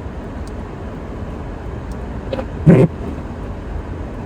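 Steady low rumble of a car heard from inside the cabin as it moves slowly. A brief, loud pitched sound cuts in about two and a half seconds in.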